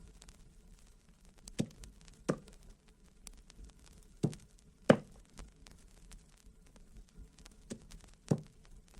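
Dull knocks in three pairs, the two blows of each pair about two-thirds of a second apart and the pairs about two and a half seconds apart, as in a staged sound effect of blows struck with a tool. Faint vinyl surface crackle runs underneath.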